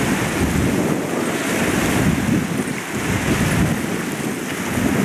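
Wind buffeting the microphone over small waves washing onto a shore, a steady rumbling rush.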